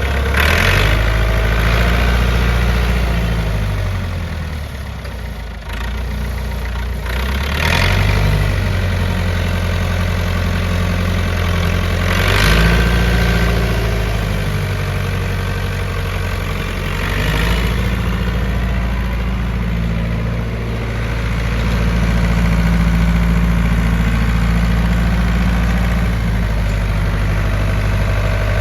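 Massey Ferguson 165 tractor's four-cylinder diesel engine running, its speed rising and falling with several brief surges of revs (near the start, and at about 8, 12 and 17 seconds) between spells of steadier running.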